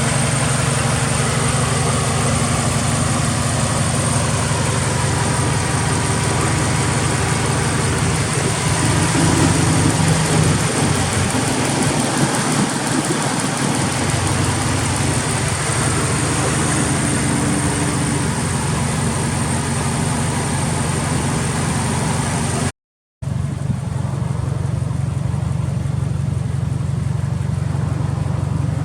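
Subaru Impreza WRX STI's turbocharged flat-four engine, fitted with a titanium muffler, idling steadily, with the sound shifting briefly about ten seconds in. The sound cuts out for a split second a little past twenty seconds, then the idle carries on.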